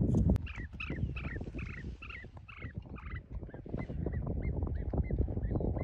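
A bird calling: a quick run of about eight pitched notes, then shorter chirps repeated about three times a second. Under the calls are footsteps crunching on snow and stones, with a knock right at the start.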